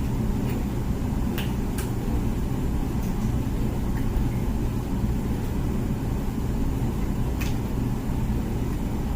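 Comfee dishwasher running its wash cycle: a steady low hum from the wash pump and water spraying inside, with a few short clicks.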